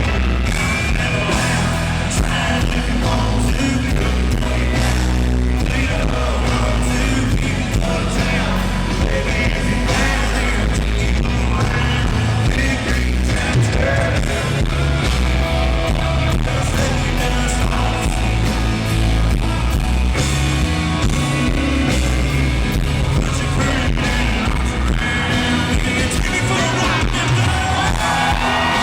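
Live country-rock band playing loud through an arena PA, with a male lead voice singing over electric guitars, bass and drums.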